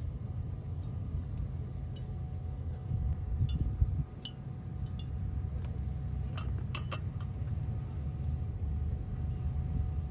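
Steady low rumble with scattered light clinks, a small cluster of them about six and a half to seven seconds in.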